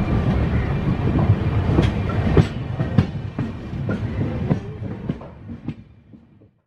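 Moving passenger train heard from an open coach doorway: a steady rumble of the running coach with the wheels clicking over rail joints about twice a second, fading away near the end.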